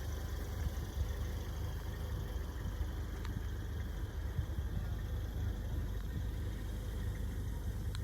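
Car engine idling steadily, a low even rumble without change in speed.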